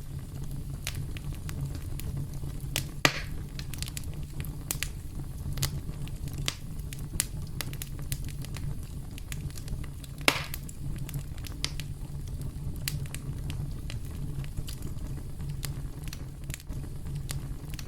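Campfire burning, with a steady low rumble and frequent sharp crackles, and two louder pops about three seconds and ten seconds in.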